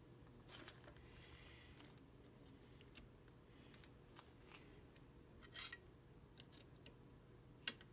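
Near silence: room tone with a few faint, scattered clicks, and a sharper click near the end.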